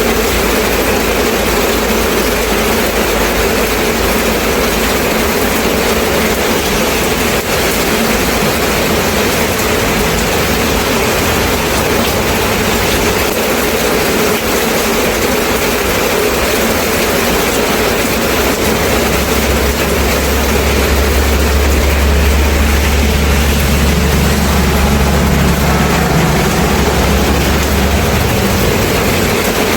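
Steady rain falling, an even hiss throughout. From a little past the midpoint to near the end, a low steady rumble like a heavy engine runs under the rain, then fades.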